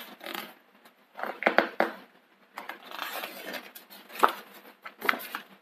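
Pages of a picture book being turned and handled: several separate paper rustles with small clicks and taps.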